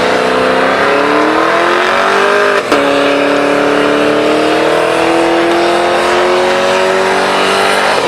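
A car engine runs hard at high revs, its pitch climbing slowly. About two and a half seconds in, the pitch drops sharply, as at a gear change, then climbs again.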